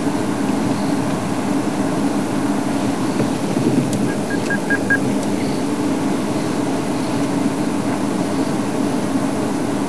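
Safari game-drive vehicle's engine running with a steady drone. About four seconds in, five short high chirps sound in quick succession.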